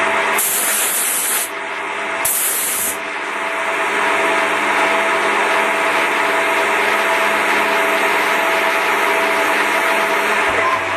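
Upgrade Technology GT-27 gang tool CNC lathe running steadily with an even mechanical hum while machining UHMW plastic washers, with two short bursts of hiss in the first three seconds.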